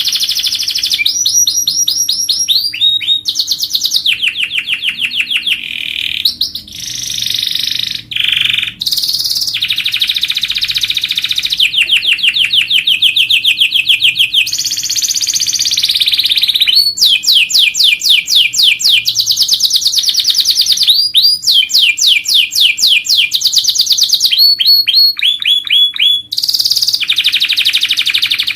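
Domestic canary singing a long, continuous song of fast trills and rapid repeated chirps, switching to a new rolling phrase every second or two.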